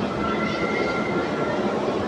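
Busy exhibition-hall hubbub of crowd chatter and machinery, steady throughout, with a faint steady tone that sets in just after the start and stops near the end.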